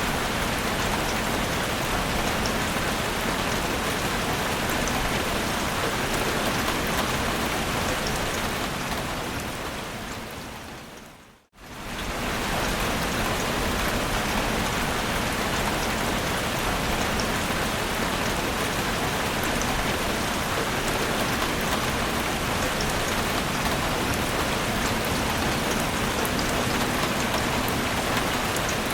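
Heavy rain falling steadily, an even hiss with scattered drop ticks. About eight seconds in it fades away to near silence and comes straight back about eleven and a half seconds in, then keeps falling.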